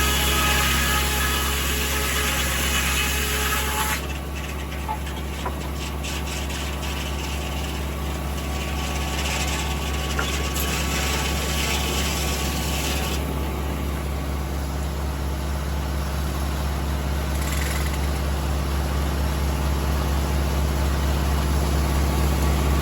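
Tractor engine running steadily under power, driving a 1950 Corley circular sawmill. A brighter, noisier sound on top of it drops away suddenly about four seconds in.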